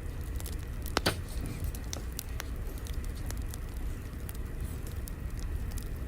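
Fire crackling: scattered sharp pops and snaps over a low, steady rumble, with one louder pop about a second in.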